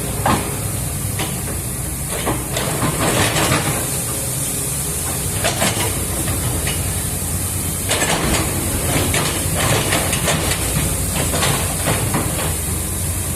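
Excavator's diesel engine running steadily with a low hum under a constant high hiss, with short noisy swells coming and going every few seconds.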